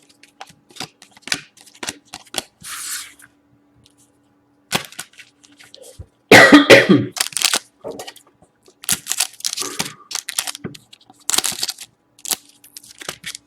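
A man coughing hard once, about six seconds in, amid the short clicks and rustles of trading cards and wrappers being handled.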